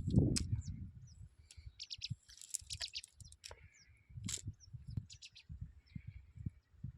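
Small birds chirping and calling in short, high notes, over irregular low rumbling and bumps that are loudest in the first second.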